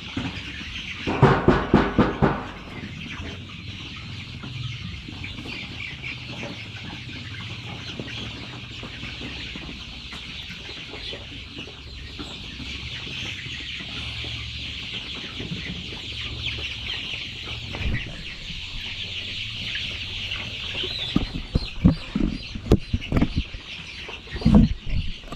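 A flock of chickens clucking and chattering steadily. One loud, drawn-out call comes about a second in, and a cluster of sharp knocks and thumps comes near the end.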